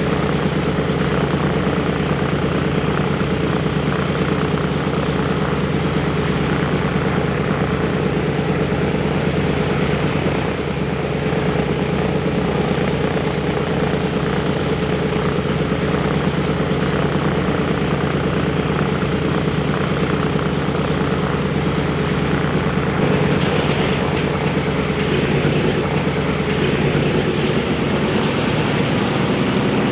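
The Wright R-1820 Cyclone nine-cylinder radial engines of a B-17 Flying Fortress run steadily at low power, a continuous propeller-driven drone. Their sound shifts slightly about two-thirds of the way through.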